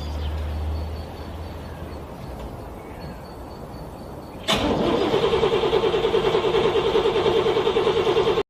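Car engine being cranked by its starter in freezing cold. It begins suddenly about halfway through with a fast, even pulsing and cuts off abruptly near the end. A low hum fades away in the first second.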